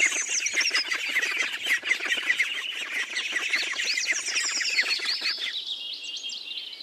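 A group of domestic ducklings peeping: many overlapping high-pitched peeps in a continuous chorus, which thins out near the end.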